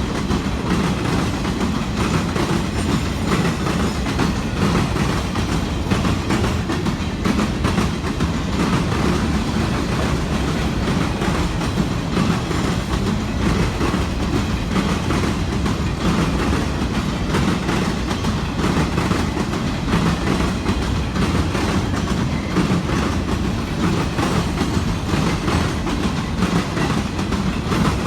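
Freight train rolling past: the steady rumble of its cars on the track, with many short wheel clicks running through it.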